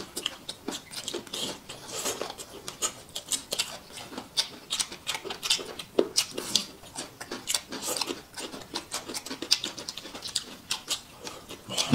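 Close-up eating sounds: wet chewing and lip-smacking as food is chewed, a steady run of short clicky mouth noises several times a second.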